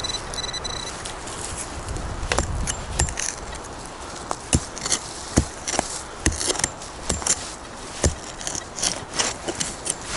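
Metal detector's tone sounding in a few short beeps at the start, then a run of irregular sharp crunches and knocks, with a steady rushing noise underneath.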